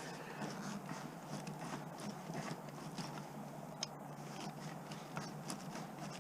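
Faint scattered clicks and scrapes of a screwdriver working a tight screw in scrap metal, with one sharper click about four seconds in.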